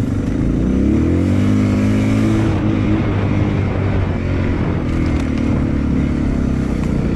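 Suzuki DR650's single-cylinder four-stroke engine pulling the bike up a rocky dirt climb. Its pitch climbs about a second in, eases near the middle and rises again a little later as the throttle is worked.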